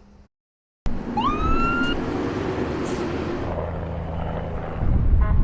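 An emergency vehicle's siren gives one short rising whoop about a second in, over the loud rumble of a vehicle engine and road noise; the sound starts suddenly after a brief silence.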